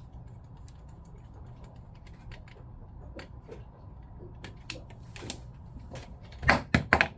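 Small clicks and taps of pump parts, screws and tools being handled on a work surface, over a low steady hum. About six and a half seconds in comes a quick run of several louder knocks.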